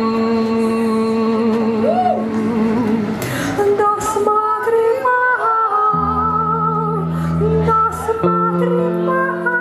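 Live rock band music: a held melody line with vibrato over sustained chords, a cymbal crash about three and a half seconds in, and deep bass notes coming in about six seconds in.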